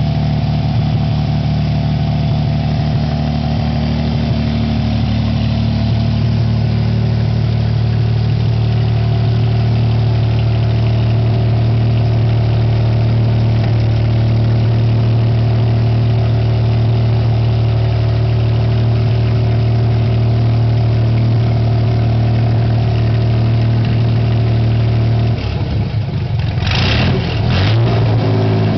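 Mercruiser 4.3-litre V6 marine engine running at a steady speed. About 25 seconds in, its steady note breaks and changes speed, with a brief hissy, rattling burst near the end.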